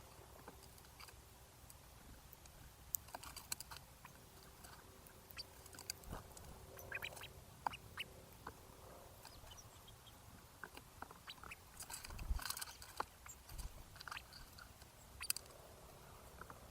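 Small birds at a feeder pecking and cracking seeds: faint, irregular taps and crunches, with a few short chirps.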